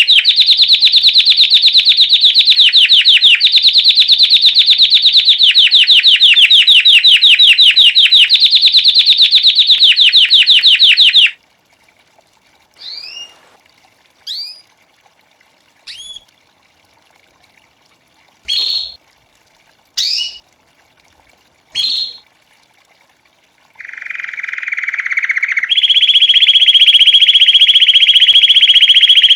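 Belgian canary singing: a long, very fast loud trill, then a run of short rising chirps about a second and a half apart, and near the end a steady rolling trill that steps up in pitch.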